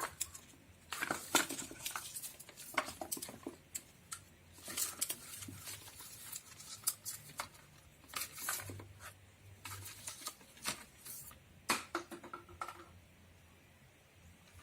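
A lovebird rustling and tearing at a paper roll with its beak: irregular crinkles and taps, dying down over the last couple of seconds.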